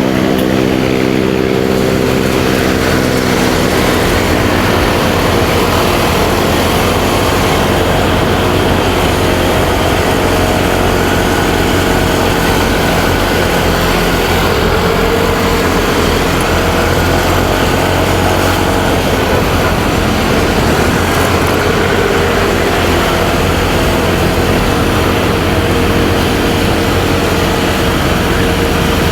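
Motorcycle ride sound: the engine running under way, mixed with wind and road noise and the surrounding traffic. A clear engine tone in the first few seconds fades into a steady rushing noise.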